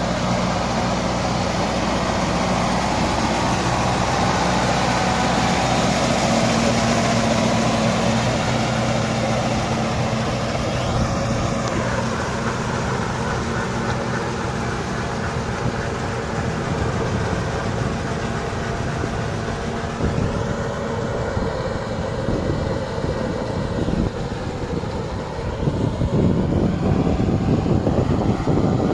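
Kubota 5501 tractor's diesel engine running steadily under load as it works a rotavator through wet mud. The engine tone is steady at first, and the sound turns rougher and noisier over the second half.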